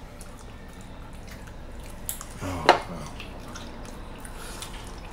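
Close-miked wet chewing and lip-smacking of sauce-covered chicken wings, with small scattered clicks. About two and a half seconds in there is one louder, brief mouth sound.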